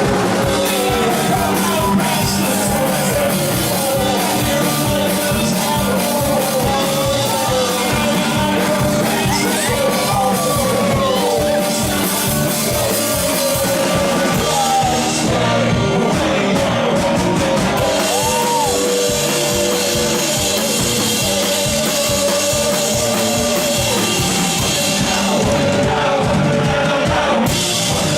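A live band playing a fast rock song, with a quick, even drumbeat under held guitar notes and a singer's voice.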